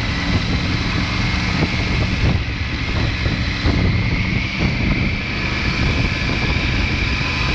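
Triumph Tiger 900 Rally Pro's three-cylinder engine running at a steady pace on the move, with a constant hum and rushing wind noise and no clear revving.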